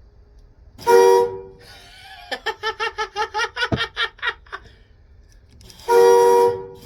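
Locomotive horn in the cab of a New York Central E8 diesel, sounding a short blast about a second in and a second blast near the end, a steady chord of several tones. Between the blasts comes a quick run of about ten short pulsing sounds.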